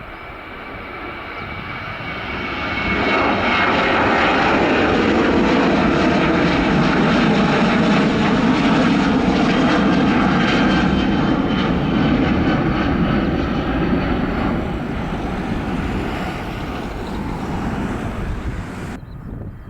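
Airliner's engines passing close by: the noise swells about three seconds in, holds loud and steady, then fades. It cuts off abruptly near the end.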